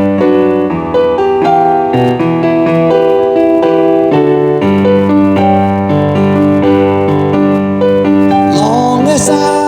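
Live instrumental intro from a small busking band, led by sustained keyboard chords that change about every half second to second.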